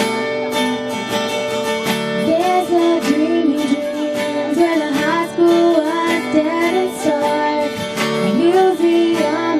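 Strummed acoustic guitar with a woman's singing voice joining over it about two seconds in: a live song performance.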